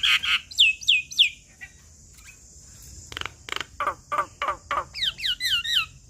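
Javan myna (jalak kebo) singing: three falling whistled notes, a short pause, then a run of about six harsh, rasping notes and a quick string of falling whistles.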